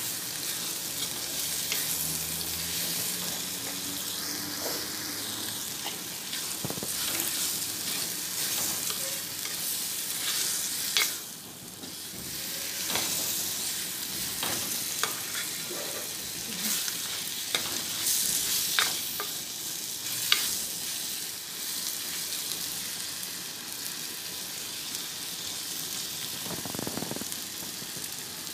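Dried fish, onions and tomatoes sizzling steadily as they fry in a clay pot, stirred with a spoon that scrapes and clicks against the pot now and then. The sizzle briefly drops about eleven seconds in.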